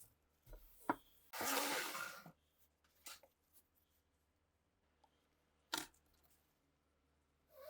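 Small pistol parts handled on a workbench: a few sharp clicks and knocks, and about a second of hissing or rubbing noise early on.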